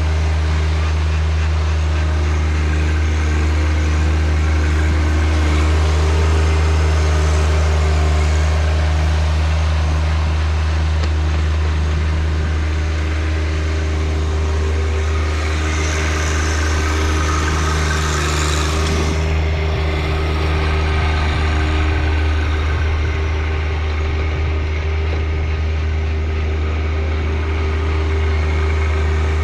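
John Deere 1025R compact tractor's three-cylinder diesel running steadily. About two-thirds of the way through there is a brief rush of harsher, higher noise that cuts off suddenly.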